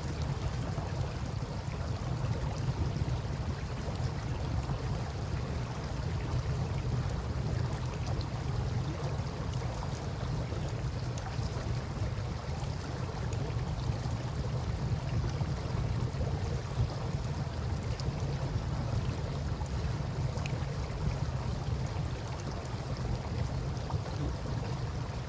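Campfire crackling with scattered faint pops over the steady wash of river water and a loud, steady low rumble.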